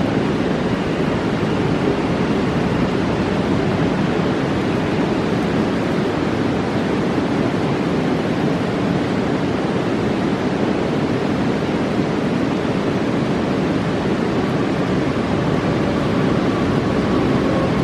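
Roaring mountain river: a steady, even rush of fast-flowing water.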